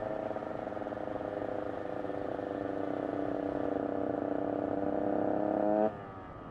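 KTM 150 EXC's single-cylinder two-stroke engine, breathing through a Pro Circuit header pipe and the stock silencer, pulling steadily in gear with its note slowly rising. Near the end it flares briefly, then the throttle snaps shut and the sound falls away sharply.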